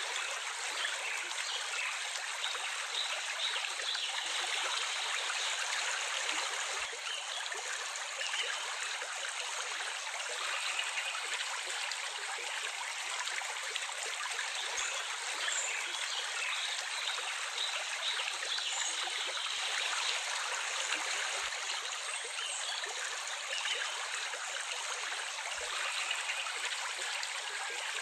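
Water running steadily in a stream, an even rushing sound without breaks.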